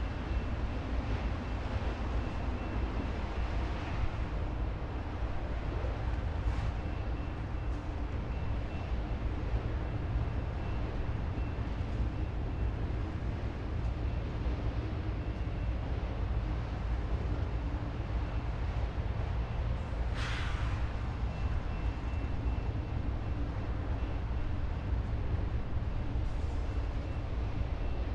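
Freight train rolling past with a steady low rumble, and a brief falling hiss about two-thirds of the way in.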